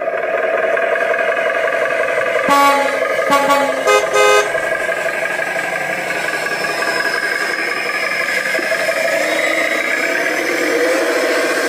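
A vehicle horn honks about four short toots in quick succession over a steady vehicle hum.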